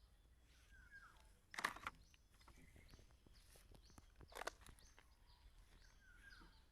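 Quiet background with faint short bird chirps and a scatter of soft clicks, broken by two brief rustling noises about a second and a half and four and a half seconds in.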